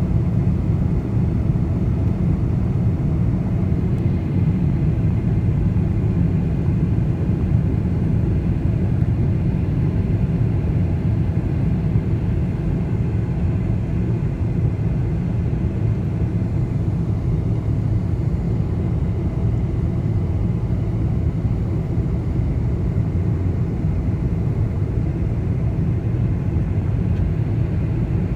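Steady low rumble of a Boeing 747 airliner in flight, heard from inside the passenger cabin: airflow and engine noise without change.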